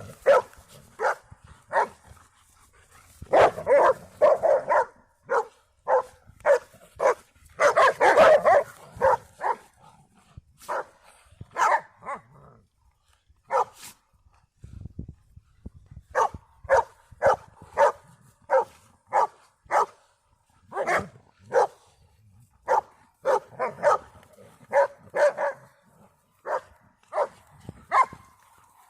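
Dogs barking over and over in short, sharp barks, roughly one or two a second. The barks crowd and overlap around four and eight seconds in, with a brief lull about halfway through.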